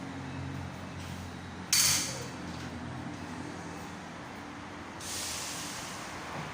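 Two blasts of compressed-air hiss: a sharp, loud one about two seconds in that quickly dies away, and a softer, longer one about five seconds in. A steady low machine hum runs underneath.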